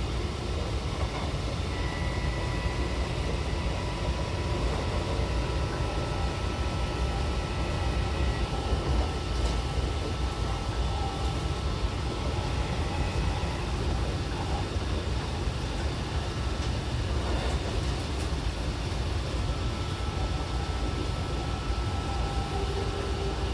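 Odakyu 70000-series GSE electric train running at a steady speed: a constant rumble of wheels on rail, with faint steady whine tones from its full-SiC VVVF traction equipment.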